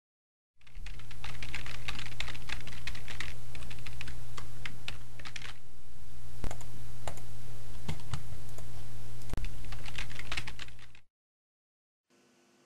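Rapid typing on a computer keyboard, a fast run of key clicks over a steady low hum. It starts just under a second in and stops abruptly about eleven seconds in.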